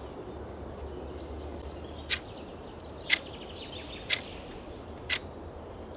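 Countdown timer ticking once a second, four ticks starting about two seconds in, over a steady nature ambience bed with faint bird chirps.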